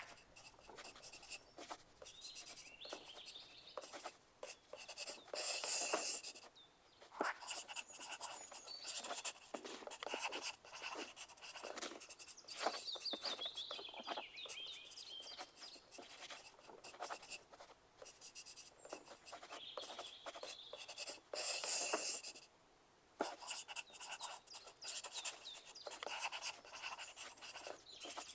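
Pencil writing on paper: a steady run of short scratchy strokes and taps, with two louder stretches of rapid scribbling about six seconds in and again past twenty seconds.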